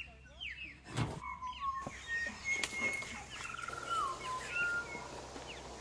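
Birds calling: a scatter of short chirps and whistled notes, several gliding down in pitch, with a longer warbling note near the middle. There are a couple of brief knocks early on.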